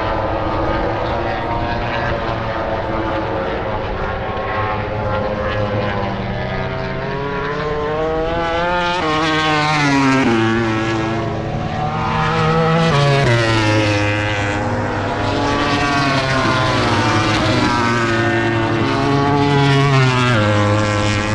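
MotoGP racing motorcycle engines running at high revs. The pitch climbs through the gears and drops sharply several times as the bikes brake and downshift for corners.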